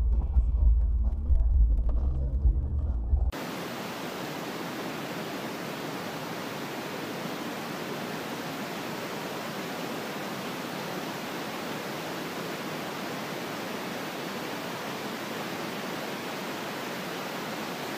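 A low car-interior rumble from a dashboard camera cuts off suddenly about three seconds in. It gives way to a steady, even hiss of recording noise with nothing else in it.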